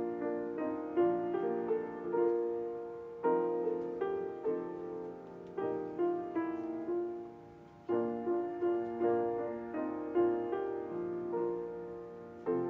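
Solo piano playing a slow, gentle piece: chords and single notes struck and left to fade, in phrases that start afresh about every four seconds.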